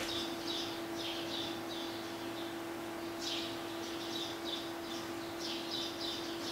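A small bird chirping in repeated clusters of quick, falling high notes, with short pauses between them, over a steady low hum.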